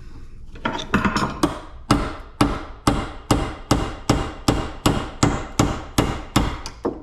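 Hammer blows on metal, about two and a half strikes a second, each with a short metallic ring, to break a weld on a piece of scrap.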